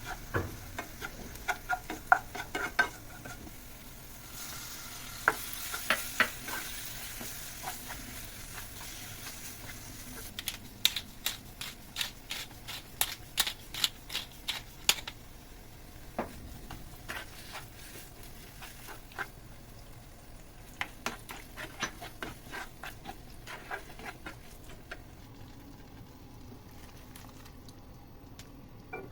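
Crushed onion and garlic frying in oil in a pot, sizzling steadily while a spoon stirs them, with runs of quick clinks and taps of the spoon against the pot.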